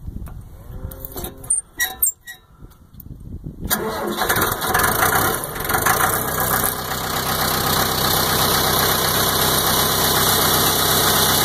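Mahindra 6000 tractor's diesel engine starting cold after glow-plug preheating: a few clicks, then about four seconds in the engine catches and runs unevenly for a few seconds before settling into a steady idle.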